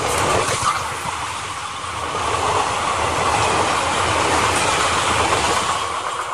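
Indian Railways express train coaches rushing past at speed close by, a dense steady rush of wheel and track noise. The noise eases off about six seconds in as the last coach goes by.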